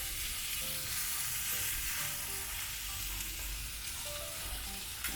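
Meat searing in oil in a hot cast-iron pan over a wood fire, a steady sizzle.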